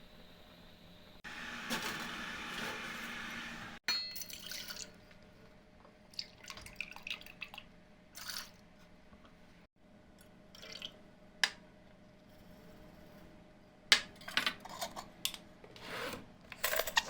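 Kitchen preparation sounds: liquid pouring steadily for about two and a half seconds, then scattered clinks and taps of utensils against bowls and dishes, busier near the end.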